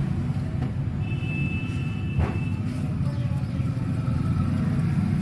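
An engine running with a steady low rumble. A short high whine runs through the first half, and there is a single knock about two seconds in.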